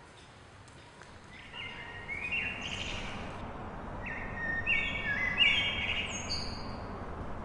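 Birds chirping outdoors over a steady background hum. After a quiet start the ambience comes up about a second and a half in, with two bursts of several overlapping chirps, the second and louder one about four to six and a half seconds in.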